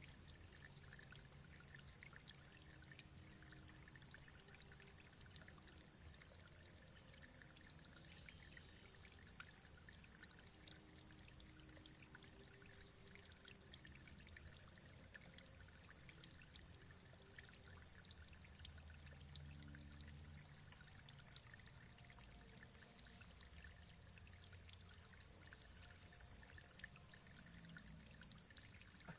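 Faint, steady running water, trickling and pouring with many small splashes.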